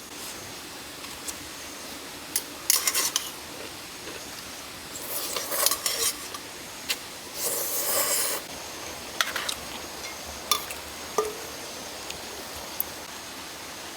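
Clinks and taps of dishes and cutlery being handled. There are scattered sharp clicks and a few short scraping bursts, the longest about 8 seconds in.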